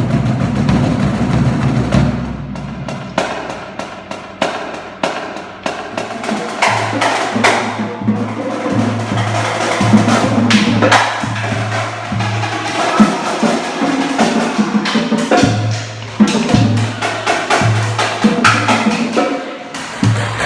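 Loud percussion-heavy music: rapid drum and wood-block-like strokes in quick succession, with a low bass note coming in and out in short stretches from about a third of the way in.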